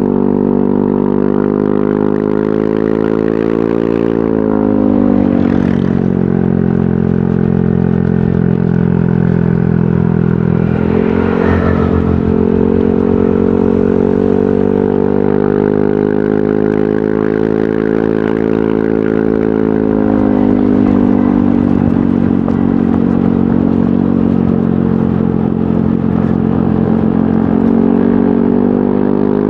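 Yamaha NMAX scooter's single-cylinder engine running through an aftermarket VMAX Onyx muffler. The engine note drops about four seconds in, climbs again about twelve seconds in after a brief rush of noise, eases off near twenty seconds and rises once more near the end.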